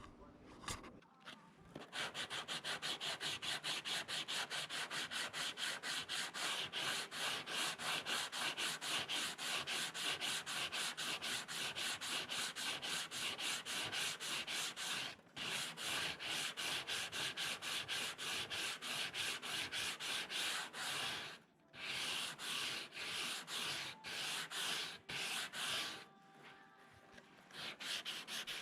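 Hand sanding of an FRP bumper repair: sandpaper rubbed over fibreglass in quick, even back-and-forth strokes, pausing briefly a few times.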